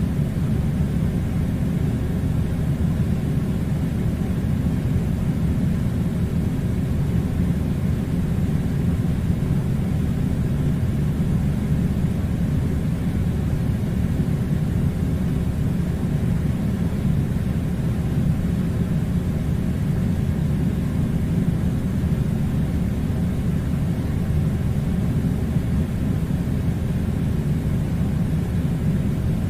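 Air conditioner running with a steady, even low rumble and a fainter hiss, unchanging throughout.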